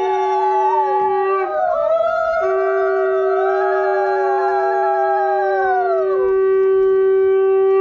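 Several conch shells (shankha) blown together for the ritual: one holds a steady note, breaking off briefly about one and a half seconds in, while others slide slowly down and up in pitch over it.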